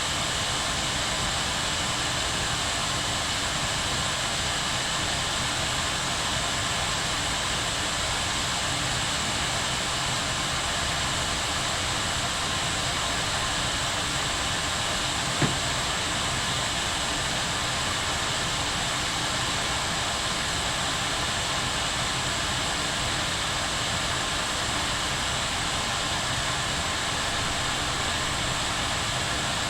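Kettle at a full boil: a steady rushing hiss with a bubbling rumble underneath. A single sharp tick comes about halfway through.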